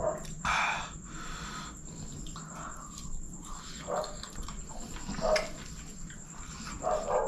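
Close-miked eating sounds: a man chewing a mouthful of chicken kottu with wet mouth smacks, in short separate bursts, the loudest about half a second in.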